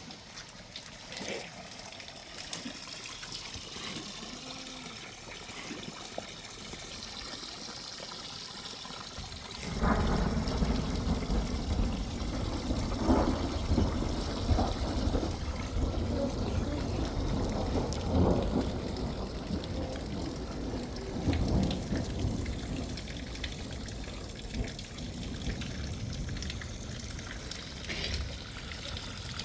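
Water pouring and trickling in heavy rain. About a third of the way in it suddenly turns much louder and deeper, with an uneven rumbling rush.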